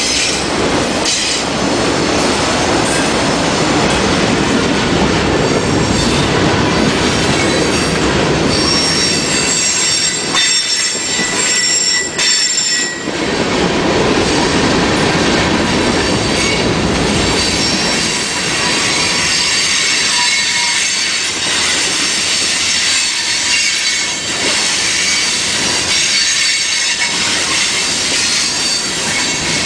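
A train rolling past with its wheels squealing on the rails: several high, steady squeal tones over the continuous noise of the cars going by.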